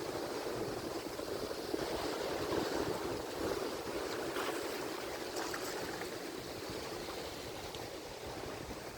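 Ocean surf: a steady wash of breaking waves that swells a few seconds in and eases toward the end.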